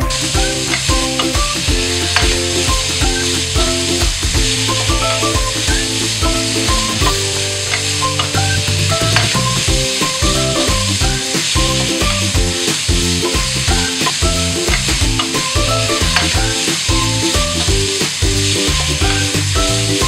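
Pork pieces sizzling as they stir-fry in a pan, stirred with a wooden spoon, as a steady hiss throughout. Background music with a repeating melody plays underneath.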